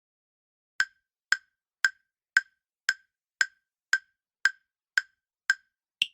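Countdown timer sound effect: ten sharp, wood-block-like ticks, about two a second, then a higher-pitched final click near the end.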